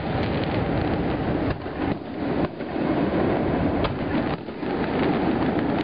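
Fireworks going off in a dense barrage, their overlapping bangs and echoes merging into a continuous rumble, broken by a few brief lulls.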